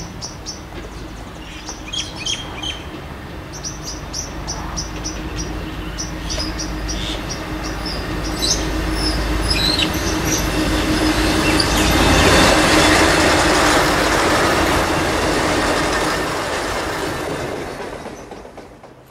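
A passenger train running into the station along the platform, with a steady low hum under the noise of its wheels on the rails. The noise builds to its loudest a little past halfway, then fades and drops away sharply near the end. Birds chirp during the first half.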